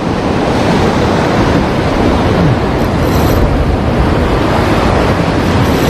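Heavy surf washing against the shore with wind buffeting the microphone: a loud, steady rush of noise.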